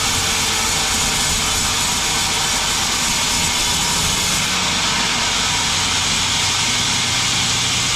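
Sawmill running steadily: a loud, even hiss of the saw over the steady hum of its motor. The highest part of the hiss drops away about halfway through.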